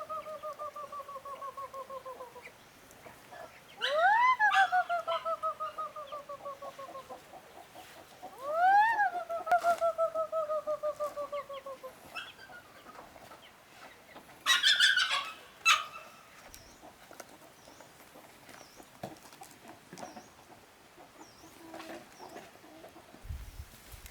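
A rooster crowing repeatedly, each crow rising sharply and then trailing off in a long falling note of about three seconds; one crow is already under way at the start, two more follow. A short, harsher call comes about fifteen seconds in.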